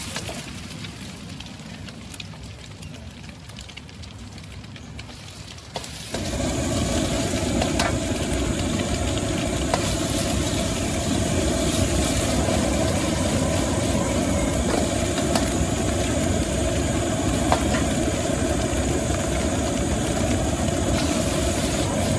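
Gas wok burner at a street-food stall, turned up about six seconds in to a loud, steady rush, with a few sharp clinks of the metal spatula against the wok as rice is stir-fried.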